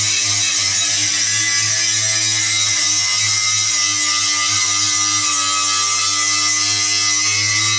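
Angle grinder grinding steel, running steadily with a loud, unbroken hiss over a low motor hum.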